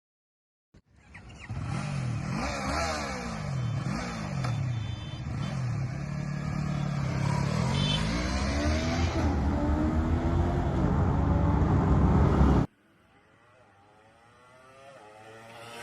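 Yamaha YZF-R3's 321cc parallel-twin engine revving and accelerating, its pitch climbing and dropping several times as it pulls through the revs. It cuts off abruptly near the end, and a much fainter engine sound follows, rising in pitch and level.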